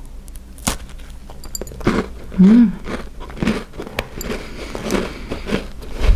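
A bite into an air-fried sesame ramen cookie, then crunchy chewing close to a clip-on microphone. A short hummed reaction comes about two and a half seconds in.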